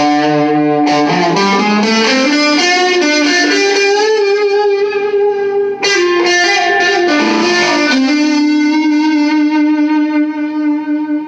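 Electric guitar with both pickups mixed, played through a small all-tube amp: a lead line of picked notes that slide and bend in pitch, ending on one note held with long sustain from about eight seconds in.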